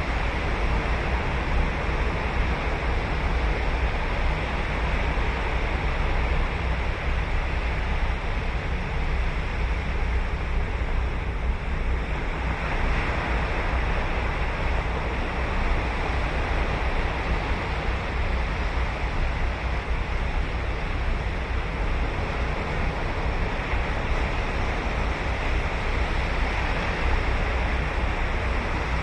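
Ocean surf: waves breaking and washing on a sandy beach, a continuous rushing wash with a deep rumble underneath, swelling a little louder about 12 seconds in. Wind buffets the microphone.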